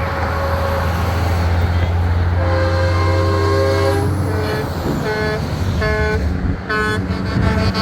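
Semi-truck air horn: one long multi-note blast starting about two seconds in, then several short toots, over the steady rumble of passing diesel truck engines.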